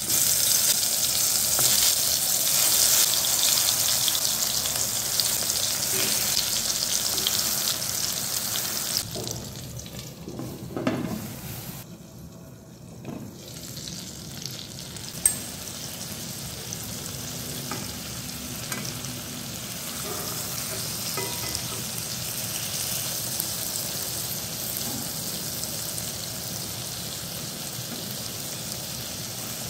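Masala-coated brinjal slices sizzling in hot oil in a frying pan, loudest just after the first slices go in, then settling to a softer steady sizzle. A single sharp click about halfway through.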